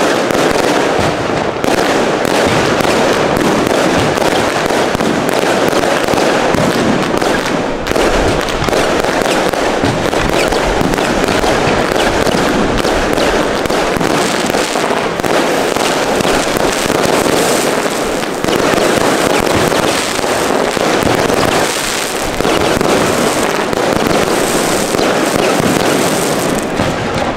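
Aerial fireworks display: a dense, unbroken barrage of shell bursts and crackling, many bangs overlapping in quick succession. It begins abruptly.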